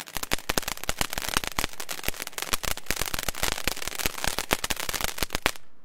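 Weco Blizzard 'Wintergewitter' firework fountain crackling densely with rapid pops, then dying away about five and a half seconds in as it burns out.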